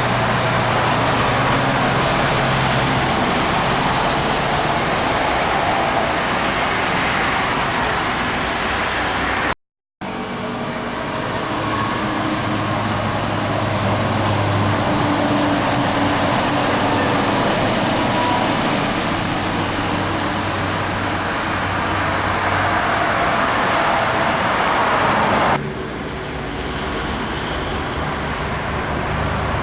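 Heavy expressway traffic going by in the rain: a steady wide hiss of tyres on the wet road, with the low drone of passing truck diesel engines. The sound cuts out completely for a moment about a third of the way in, and changes abruptly near the end.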